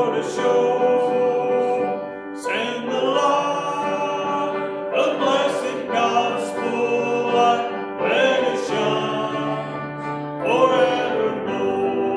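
A congregation singing a hymn together, in sustained sung lines, a new phrase beginning about every two and a half seconds.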